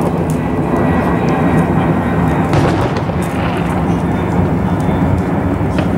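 Aerial fireworks shells bursting over a river, the booms running together into a steady rumble, with sharper cracks about two and a half seconds in and again near the end.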